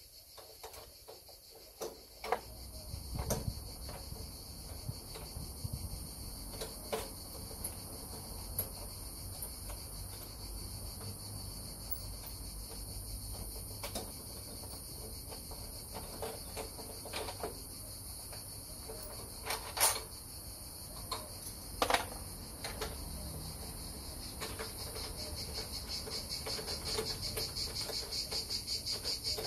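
Crickets chirping steadily in a high, even drone that grows louder and more pulsing near the end, with scattered sharp clicks and knocks, the loudest about 20 and 22 seconds in.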